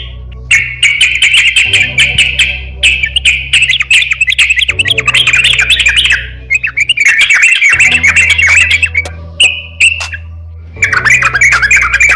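Crokcokan songbird singing in rapid, harsh chattering phrases of one to two seconds, with short breaks between them, over a steady low hum.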